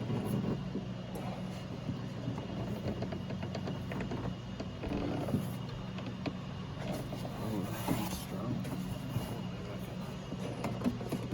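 Small clicks, knocks and rustling of hands working plastic window-glass clips loose inside a car door, over a steady low hum.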